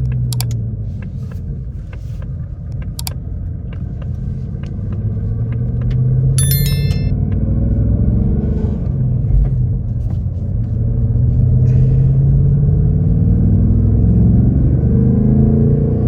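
2024 Ford Mustang GT's 5.0-litre Coyote V8 through its active exhaust, accelerating through the gears on a drive: the engine note climbs about five seconds in, holds, and climbs again toward the end. A few sharp clicks in the first three seconds and a brief high electronic tone about six and a half seconds in.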